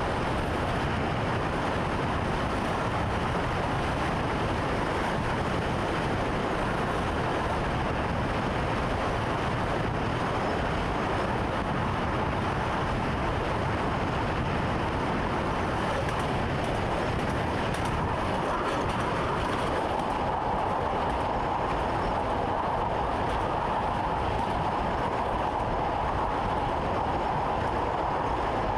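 A train running on rails, heard from inside the driver's cab: a steady rumble of wheels and running gear. About two-thirds of the way in, a higher, steady hum joins it.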